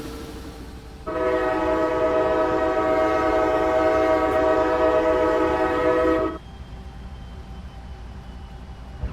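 Diesel locomotive horn sounding one long steady blast of several tones together for about five seconds, starting about a second in, as the train departs the station.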